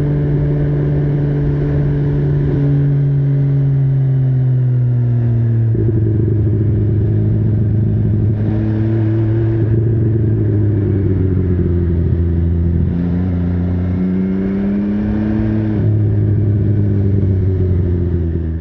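MV Agusta Brutale 800 three-cylinder engine running while riding. The revs sag slowly at first, then change pitch abruptly several times as the bike shifts and rises again near the end.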